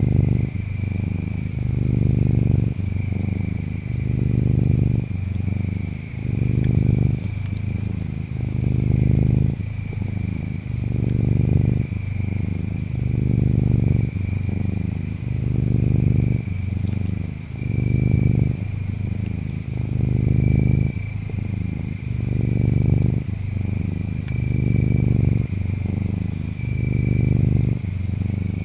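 Domestic cat purring, a low rumble that swells and fades with each breath about every two seconds. Insects chirp steadily behind it in a thin high trill.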